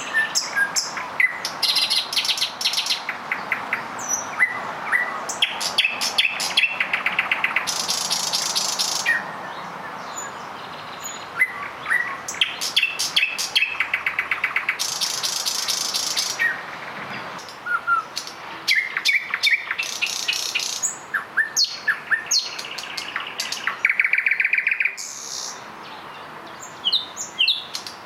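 Several nightingales singing at once, their songs overlapping without pause: fast trills of repeated notes, sharp clicks and short whistles.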